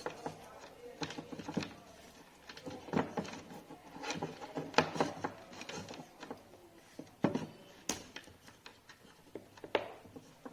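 Irregular clicks and knocks, as of tools and wooden or metal parts being handled and set down on a workbench.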